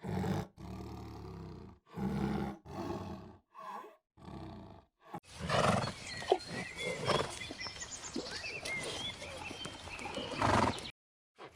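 A series of short, low-pitched animal calls with pauses between them, then about five seconds in a change to outdoor animal sounds with high bird chirps over a steady background.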